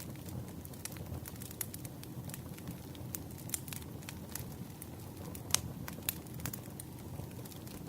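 Wood campfire burning: a steady low rumble of flames with irregular snapping and popping crackles of the burning logs, one sharper pop about five and a half seconds in.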